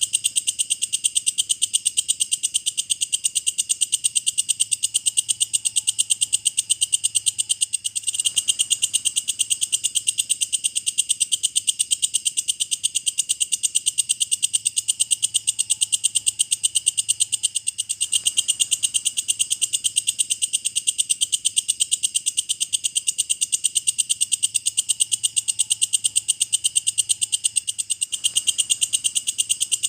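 Walang kecek, an Indonesian bush cricket, calling: a continuous, high-pitched, very fast ticking trill that repeats the same pattern about every ten seconds.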